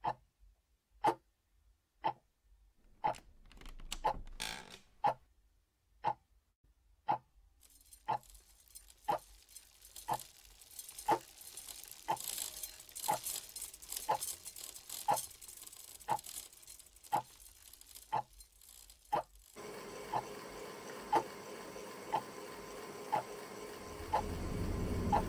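Clock ticking steadily about once a second. A brief rustle comes in around four seconds in, a hiss joins at about eight seconds, and a low hum and rumble build up near the end.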